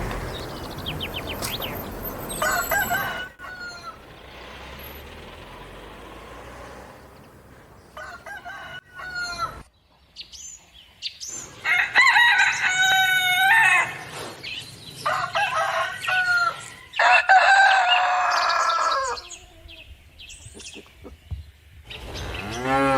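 Rooster crowing: a few short calls, then three long cock-a-doodle-doo crows in the second half.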